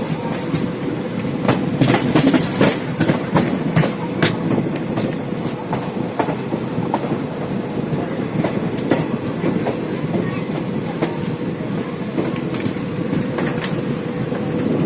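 Kumbh Express passenger train of Indian Railways running along the track: a steady rumble of the coaches with sharp, irregular wheel clicks over the rails, densest about two to four seconds in, and a faint steady hum.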